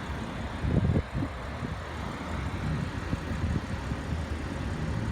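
Audi S5 engine idling steadily, with a brief loud low rumble on the microphone about a second in.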